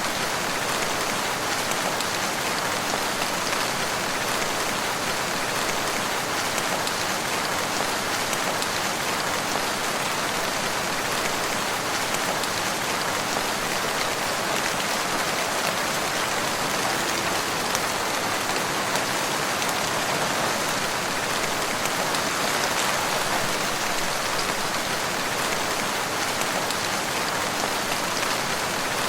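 Steady rain falling, an even hiss of many drops with no breaks or sudden sounds.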